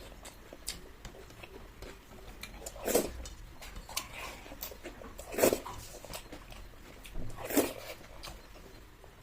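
Close-up eating sounds: food being handled and chewed, with small clicks against the plate and three short, louder mouth sounds spaced a couple of seconds apart.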